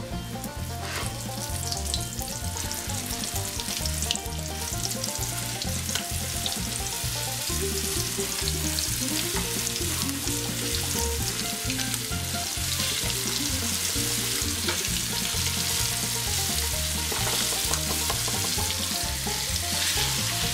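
Breaded chicken wing pieces deep-frying in hot canola oil in a cast-iron skillet: a steady sizzle that grows louder over the first couple of seconds as more pieces go in. Background music plays underneath.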